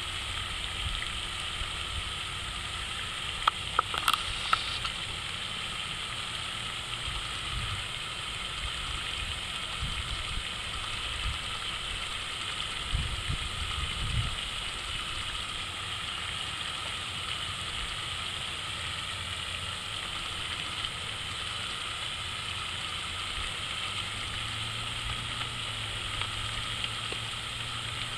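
Water fountain running: a steady splash of falling water, with a few sharp clicks about four seconds in.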